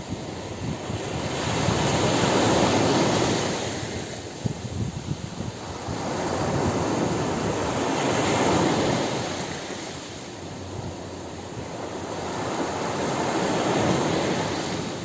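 Ocean surf on a beach: waves swelling and washing in three times, about every five to six seconds.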